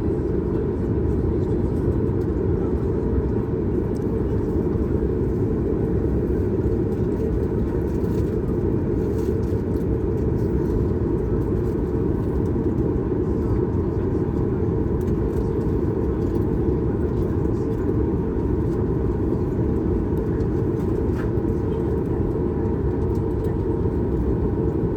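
Steady cabin drone of a Boeing 737 MAX 8 in flight: an even, low rush of engine and airflow noise with a faint steady whine above it.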